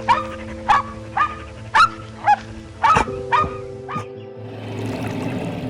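A dog barking in short, repeated barks, about two a second, which stop about four seconds in, over background music; near the end a rushing, pouring-water sound takes over.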